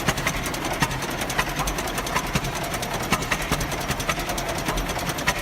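International Harvester Titan 10-20 tractor's twin-cylinder engine running: a rapid, even clatter with louder knocks about every second.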